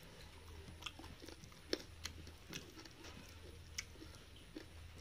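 Close-up chewing of a mouthful of rice and pork curry eaten by hand, with scattered wet mouth and lip clicks, the sharpest just under two seconds in. Fingers squish rice into the curry near the end.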